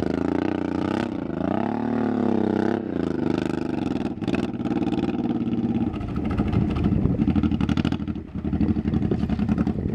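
Motorcycle engine running under way, its pitch rising and falling about a second in, then holding steadier with a fast, even throb, with a brief drop in level about eight seconds in.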